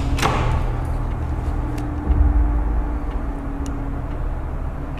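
A door being opened, with a short sharp sound just after the start that falls in pitch, followed by a steady low rumble with a faint hum and a few light clicks.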